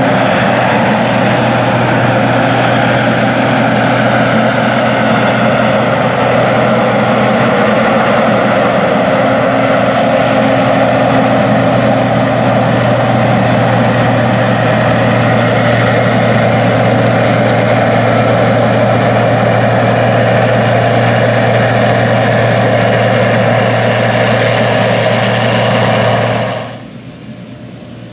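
Gleaner R60 combine harvesting wheat: its repowered Cummins 8.3 diesel engine and threshing machinery run at a steady, even pitch under load. Near the end the sound drops off sharply to a much quieter level.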